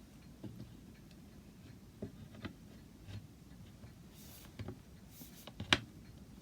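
Light wooden clicks and knocks from chair parts being handled and dry-fitted on new dowels, with one sharper knock near the end.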